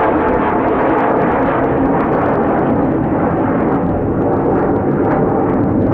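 Jet engines of an Airbus A320neo airliner during its landing rollout: a loud, steady rush of engine noise with no clear breaks.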